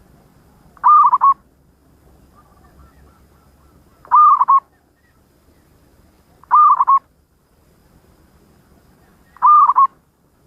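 Zebra dove (perkutut) cooing: four short phrases of quick broken notes, a few seconds apart.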